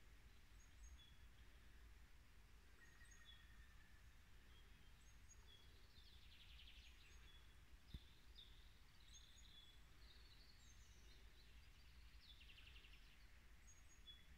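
Faint birdsong: scattered short, high bird calls, with two brief rapid trills about six and twelve and a half seconds in, over a low rumble of wind.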